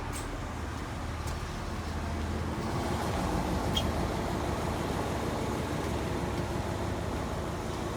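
Heritage train's diesel engine heard from inside the carriage: a steady low idle hum, then a louder, fuller rumble from about three seconds in as the engine is worked.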